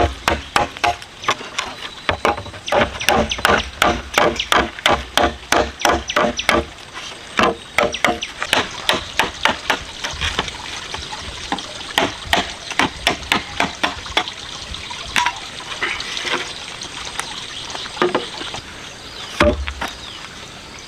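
Rapid, repeated chopping strokes, about three a second, with a ringing knock to each blow; after about seven seconds the strokes come slower and less evenly.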